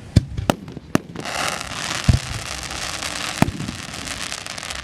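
Aerial fireworks bursting in a string of sharp booms, the heaviest about two seconds in. Under them, a dense crackling fizz of crackle shells sets in about a second in and slowly dies away.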